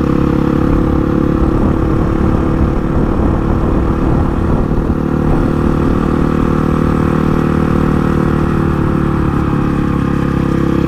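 Honda CRF450 supermoto's single-cylinder 450cc four-stroke engine running under way at a steady, nearly constant engine speed, heard from on the bike.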